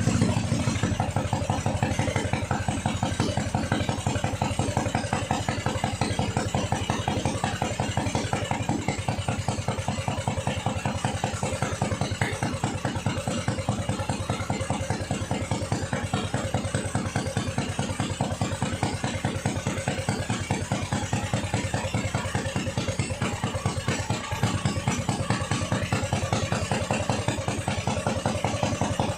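Yamamoto 25 HP ketinting (longtail boat) engine idling steadily with an even, rapid firing beat.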